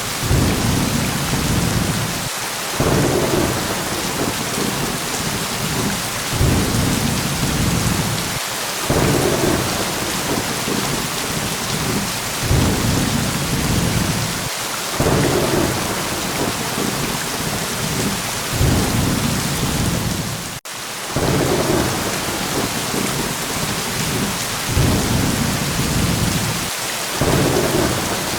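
Steady heavy rain hissing, with low rolls of thunder swelling and fading about every three seconds. The sound drops out for an instant about twenty seconds in.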